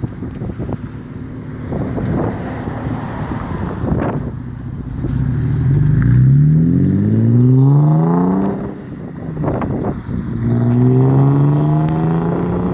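Car exhaust from a 3.0-litre engine with a six-speed gearbox, accelerating hard: a rough rumble with wind noise for the first half, then the engine note climbs steadily through a gear, dips at a gear change about eight and a half seconds in, and climbs again.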